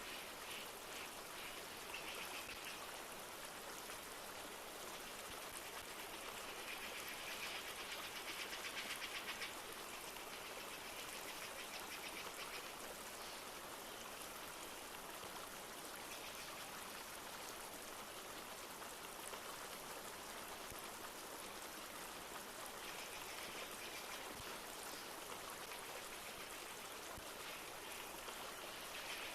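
Steady rushing of a flowing river with light rain falling. A rapid high trill comes and goes, strongest about seven to nine seconds in.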